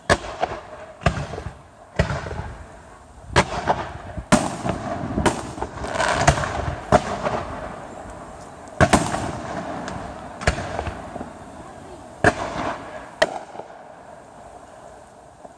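Fireworks display: about a dozen sharp aerial shell bursts at uneven intervals, with a denser run of crackling bangs in the middle, thinning out near the end.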